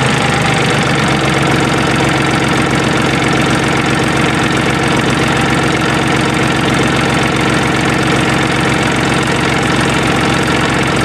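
QC385 three-cylinder diesel engine of a stationary diesel drive running loudly and steadily.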